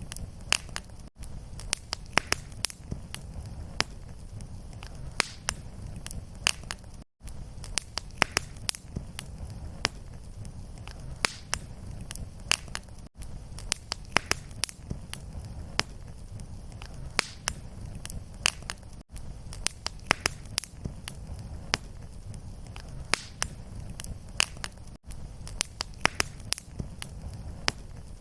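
Fireplace fire crackling: many sharp pops and snaps over a steady low rumble. A brief dropout comes about every six seconds where the short recording loops.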